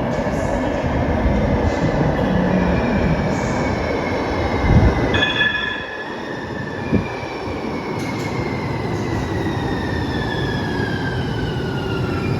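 Muni Metro light rail train running in a subway tunnel, with a rumble and a high electric whine that falls slowly in pitch as the train slows. Two short knocks come about five and seven seconds in.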